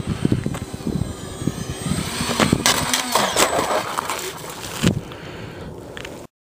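Electric ducted-fan RC jet running in flight, a faint whine that bends in pitch, under heavy wind buffeting on the microphone. The sound cuts off suddenly near the end.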